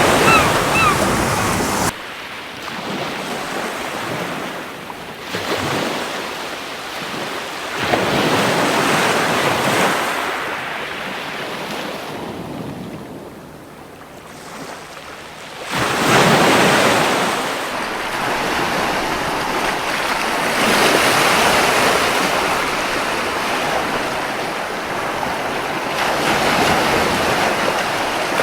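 Sea waves washing onto a beach in slow successive surges, the loudest about sixteen seconds in, with a quieter lull just before it. A rapid series of short seagull cries sounds at the very start, and the surf drops suddenly about two seconds in.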